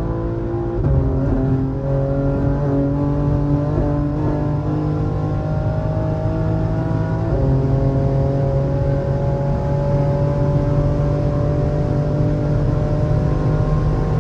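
BMW M3 G80's twin-turbo inline-six, tuned to about 750 hp, pulling at full throttle at well over 200 km/h, heard from inside the cabin. Its pitch climbs slowly and drops at two upshifts, one about a second in and one about halfway through.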